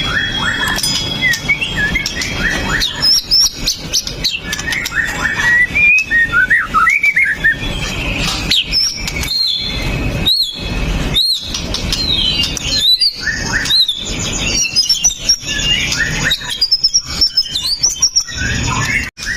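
White-rumped shama singing a fast, varied song of sharp whistles and chirps, the notes sliding up and down in quick succession.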